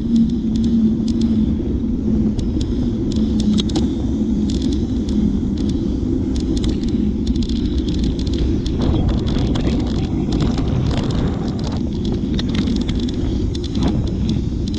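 Steady low rumble of wind and road noise on a moving bicycle, with scattered small clicks and rattles.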